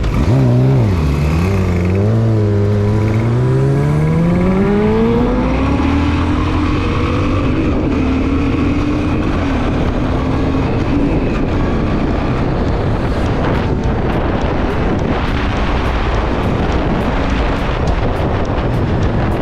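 Motorcycle engine pulling away: its pitch dips over the first couple of seconds, then rises steadily as the bike accelerates through the first six seconds or so and settles to a steady cruise, with wind rush growing louder over the second half.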